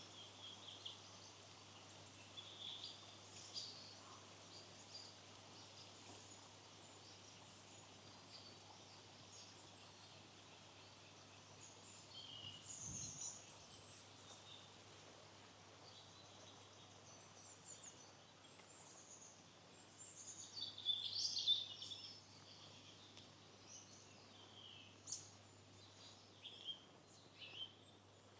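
Small birds chirping and calling in short, high notes, scattered throughout and busiest about twenty seconds in, over a faint steady hiss.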